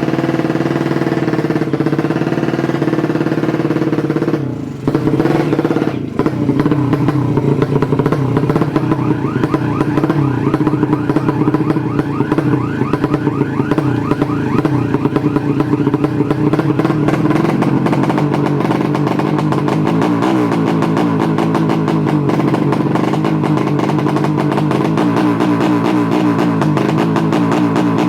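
Drag-race motorcycle engines running and revving, more than one at a time, their pitch rising and falling throughout, with a brief drop about four and a half seconds in.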